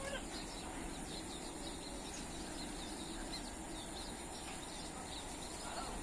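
Faint, repeated short chirps of small birds over a steady background hiss.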